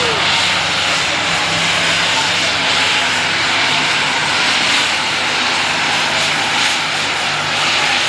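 Turbocharged diesel engine of a super stock pulling tractor running flat out under full load as it pulls the sled, loud and steady.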